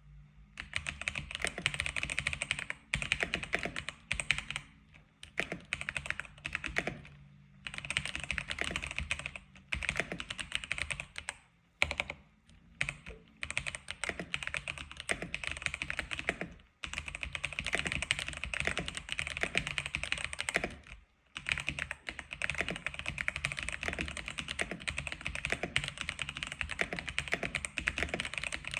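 Typing on an X87 keyboard: fast, continuous runs of keystrokes broken by short pauses of a second or less, several times.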